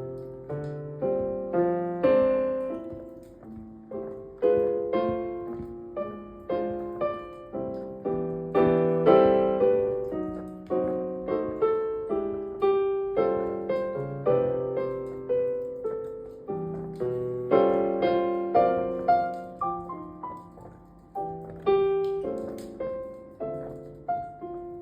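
Solo piano playing a Christmas song at an unhurried pace, melody over chords, each note struck and left to ring and fade.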